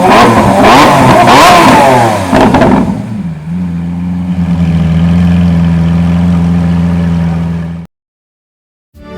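Lamborghini Aventador V12 revved in quick blips with exhaust crackles, then settling to a steady idle. The sound cuts off abruptly near the end.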